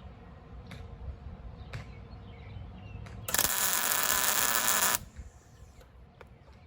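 A welding arc struck for a single tack weld: one loud burst of arc noise lasting under two seconds, starting about halfway through and cutting off sharply.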